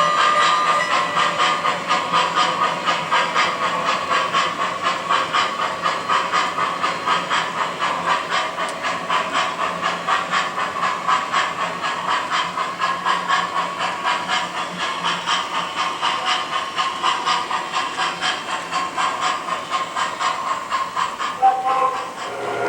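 O scale model train running with its onboard sound system, a steady hiss pulsing about three to four times a second. A chord of steady horn-like tones cuts off under a second in.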